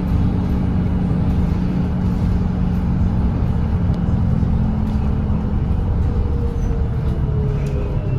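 Volvo B8RLE double-decker diesel bus's engine running steadily at expressway speed, a loud low drone over road noise. In the second half the engine note settles lower.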